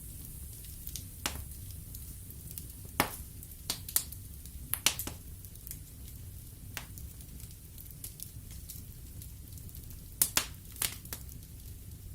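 Wood fire burning in a fireplace, crackling and popping: irregular sharp pops of burning wood, bunched about three to five seconds in and again near ten seconds, over a low steady rumble of the flames.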